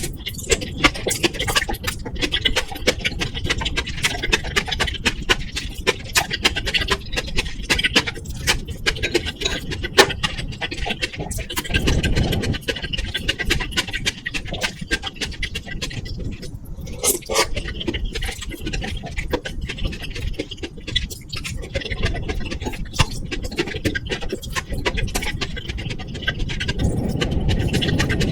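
Close-miked eating sounds of chewing stew and rice over constant crackling and clicking microphone noise, with heavier low mouth sounds about twelve seconds in and near the end. The crackle comes from a faulty microphone setup that the uploader says did not improve after the microphone and cable were replaced.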